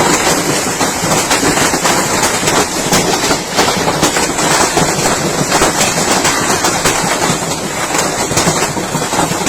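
Heavy hailstorm: hailstones and rain pelting down in a dense, unbroken clatter of many small impacts.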